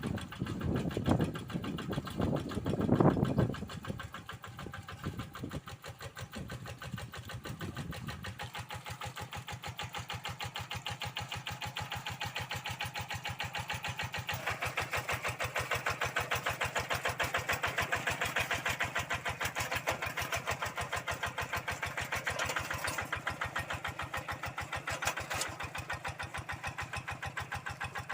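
Kubota RD85DI single-cylinder diesel of a Quick G1000 hand tractor running with a steady fast chug. Heavy low thumps come in the first few seconds, and about halfway through the engine note grows louder and brighter.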